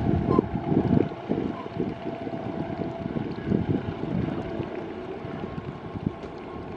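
Passenger train rumbling past on the rails with irregular clattering knocks, fading away toward the end, with wind buffeting the microphone.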